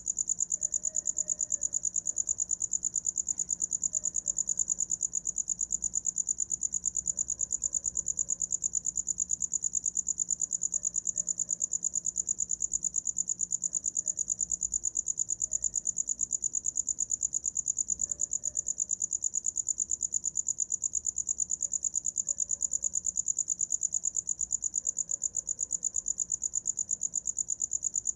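Cricket singing continuously, a high-pitched chirp repeated in a fast, even pulse.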